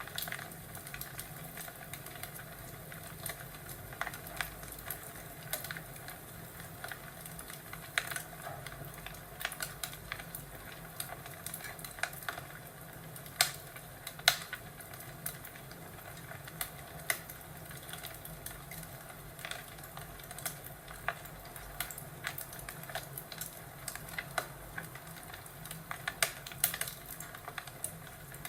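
Crackling fire: irregular sharp pops and snaps over a steady soft hiss, with two louder snaps about halfway through.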